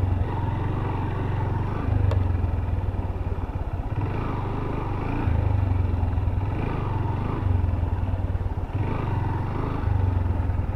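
Honda CB Hornet 160R's single-cylinder engine running at low speed, the throttle opening and easing off several times so the drone swells and drops. A faint click about two seconds in.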